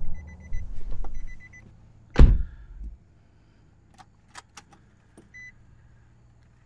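Nissan Altima being started: a warning chime beeps in short repeated tones while the starter cranks, and the engine catches with a loud burst about two seconds in. After that it runs quietly, with a few sharp clicks and another beep.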